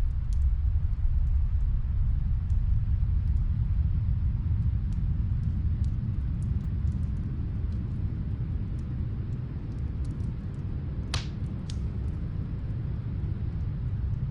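Snowstorm wind as a steady, deep rumble, with the faint crackle of a wood fire from another room: scattered small ticks and two louder pops about eleven seconds in.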